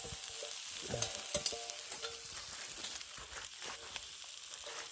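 Chicken sizzling on a flat rock heated over a campfire, a steady frying hiss with scattered sharp pops and crackles.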